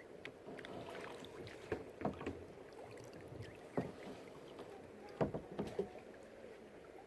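Kayak paddle strokes in calm water: a few soft, irregular splashes and drips, with a small cluster of them about five seconds in.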